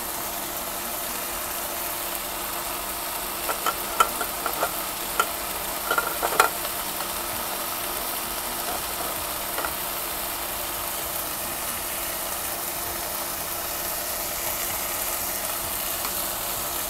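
Canned tuna with tomato, onion and garlic frying in a nonstick wok: a steady sizzle, with a handful of sharp ticks and pops around four to six seconds in.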